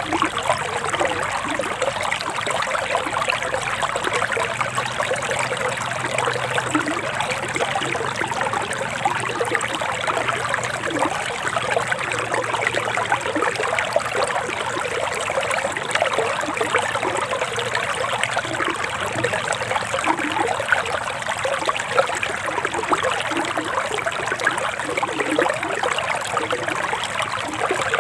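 Forest stream running over rocks: a steady, unbroken trickle of flowing water.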